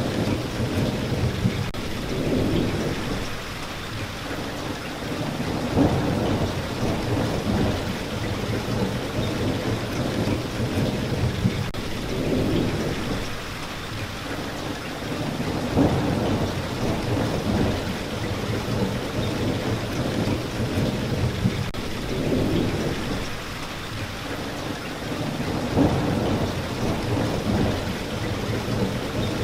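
Steady rain falling, with low rumbles of thunder swelling and fading every few seconds.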